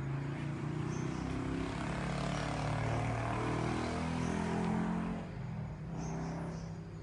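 A motor vehicle passing by. Its engine hum and rushing noise build to a peak about four to five seconds in, then fade away. Insects chirp faintly.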